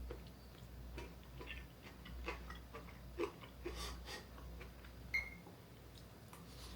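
Faint clicks and light taps of chopsticks and tableware against dishes while eating, with one short ringing clink about five seconds in.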